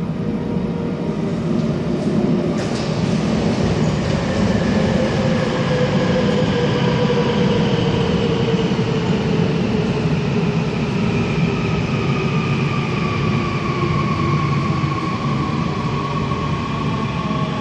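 A Seoul Subway Line 2 electric train pulls into the station, slowing as it arrives. The wheels rumble steadily on the rails, and the whine of its electric traction motors slowly falls in pitch as it brakes.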